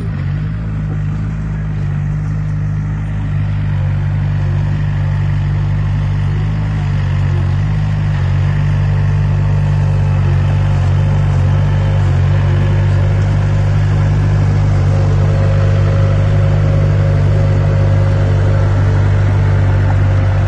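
A heavy construction machine's diesel engine runs steadily under load with a low, continuous hum. It grows louder over the first several seconds, then holds steady.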